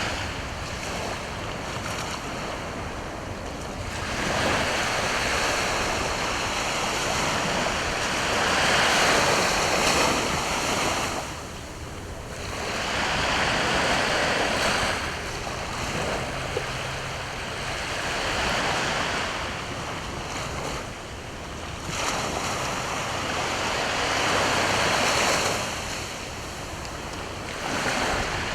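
Sea waves breaking on the shore, the surf swelling and falling back in surges every several seconds.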